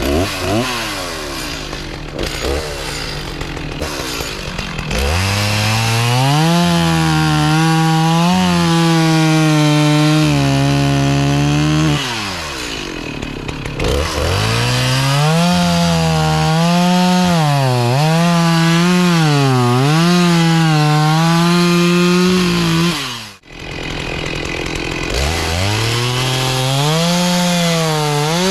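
Two-stroke chainsaw bucking a quaking aspen log: it idles, is revved up and cuts three times, its pitch wavering and sagging under load in the wood and falling back to idle between cuts. There is a brief break in the sound about 23 seconds in.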